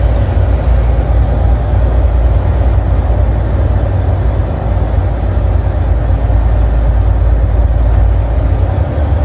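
Semi-truck engine and road noise heard from inside the cab while driving: a steady, heavy low drone with an even rush of tyre and wind noise.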